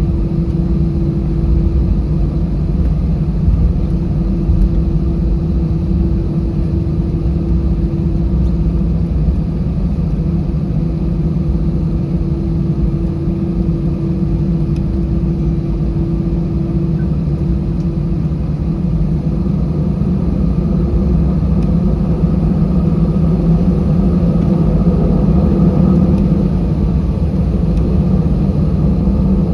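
Steady low rumble of an Airbus A320's engines and airflow heard inside the passenger cabin. A humming tone fades out a little past halfway, and the rumble swells slightly a few seconds before the end.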